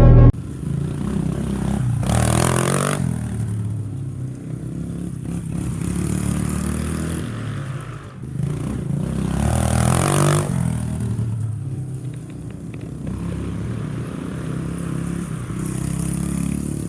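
Small off-road vehicle engine running and revving while riding, with clatter and two loud rushes of noise, about two and ten seconds in.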